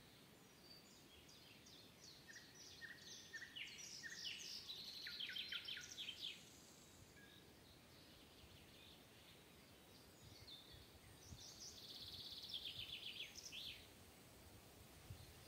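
Faint songbird song in a forest: two phrases of quick, short repeated notes, one about two seconds in lasting some four seconds and another about ten seconds in, with a light steady background hiss between them.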